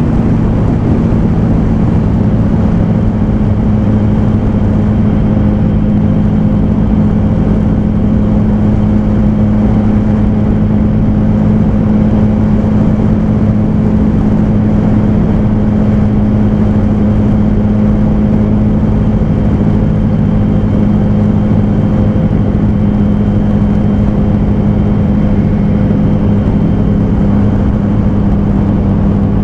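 2004 Yamaha R1's inline-four engine, fitted with a GYT-R slip-on exhaust, running at a steady cruise. Its pitch dips slightly right at the start and then holds steady under a loud rush of wind and road noise.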